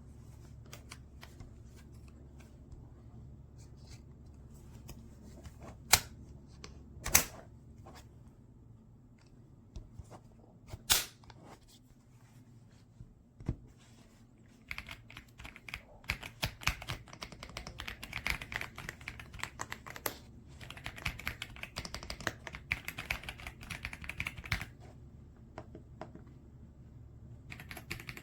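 Typing on the EPOMAKER x Aula F75 gasket-mount mechanical keyboard. A few loud single clicks come first, then a fast, continuous run of keystrokes from about halfway through, a short pause, and typing again at the end.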